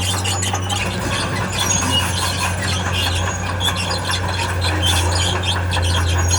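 Tracked earthmoving machine at work: a diesel engine running steadily under the high squeal and clatter of its steel crawler tracks.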